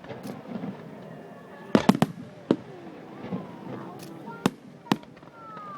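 Fireworks going off: about six sharp bangs at uneven intervals, two of them close together about two seconds in, over crowd chatter. A falling whistle sounds near the end.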